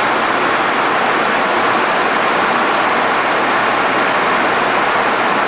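Steady rushing cockpit noise of a Boeing 737-200 in flight: airflow over the flight deck mixed with the hum of its Pratt & Whitney JT8D engines.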